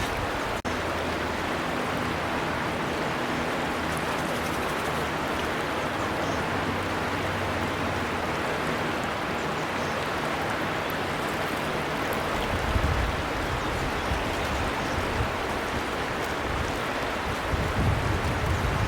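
A river running steadily, an even rush of flowing water, with low rumbling surges in the second half. The sound drops out for an instant near the start.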